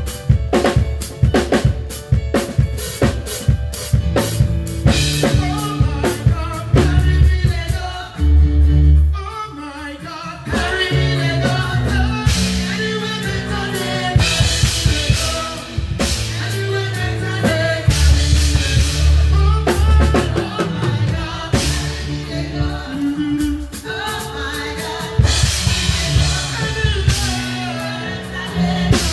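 Live band music: a drum kit playing busy snare, kick and cymbal patterns under bass notes and singing, with a short drop in intensity about eight seconds in before the full band comes back.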